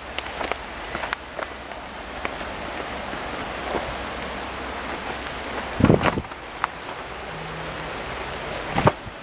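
Steady rain falling, with drops ticking sharply close by. Two heavier thuds stand out, about six seconds in and again near the end.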